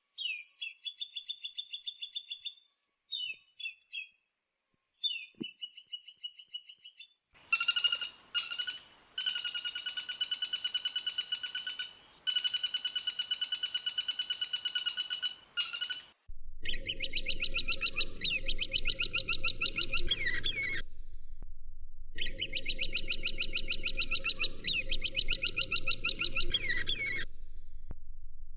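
Woodpecker calls: fast, rattling trills of sharp repeated notes in a series of separate bursts. The later bursts have a low hum beneath them.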